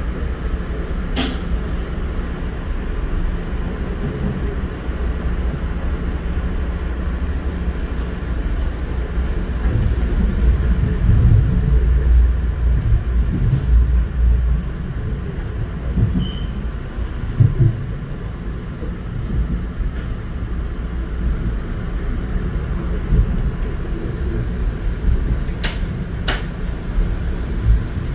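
Metro-North commuter train running along the rails, heard from inside the passenger car: a steady low rumble that swells a little midway, with a few sharp clicks about a second in and twice near the end.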